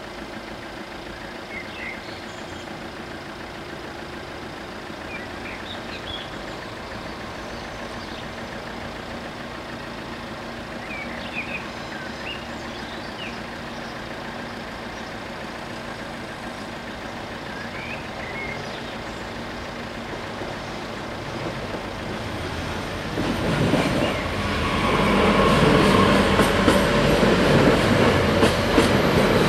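A steady hum with a few short chirps, then from about 23 s in a TER regional multiple-unit train arrives and passes over the level crossing, its wheels clattering over the rail joints near the end.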